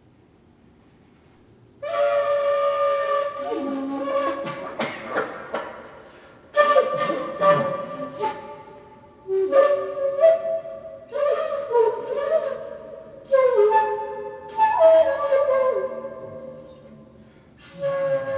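Shakuhachi played in short phrases of breathy, sharply attacked notes, some sliding in pitch, beginning about two seconds in after a near-quiet pause.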